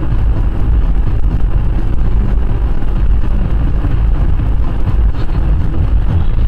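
Steady low road rumble and wind noise of a car driving on a highway, picked up by a dashcam microphone inside the car.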